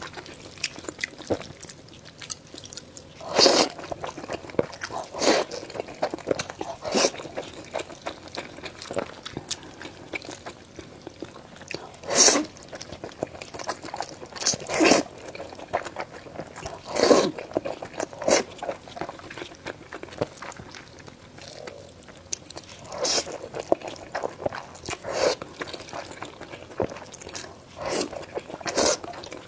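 Close-miked eating sounds: loud crunchy bites every few seconds, with softer wet chewing between them.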